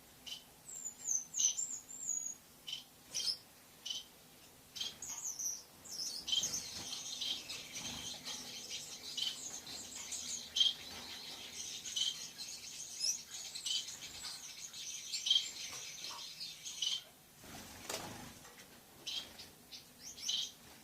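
Lovebird chirping: sharp, high chirps come one at a time at first, then run together into continuous chattering for about ten seconds, then thin out again into single chirps.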